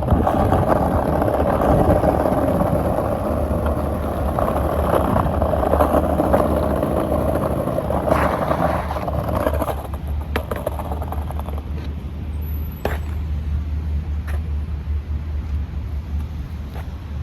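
Street traffic noise with a steady low rumble; the louder sound of passing vehicles fades away about ten seconds in.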